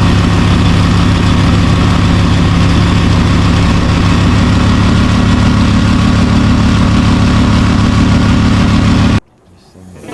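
A boat's outboard motor runs steadily at a constant speed, loud and unchanging, then cuts off abruptly near the end.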